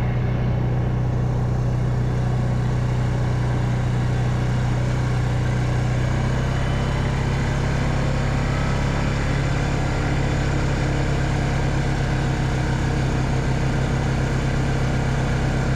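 Engine of a small farm vehicle running at a steady, even speed while driving along a dirt track, with a constant low drone.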